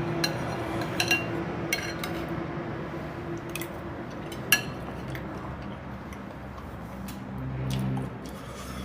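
Eating utensil clinking against a dish of stew while food is scooped: a handful of sharp clicks, the loudest about four and a half seconds in, over a low steady hum.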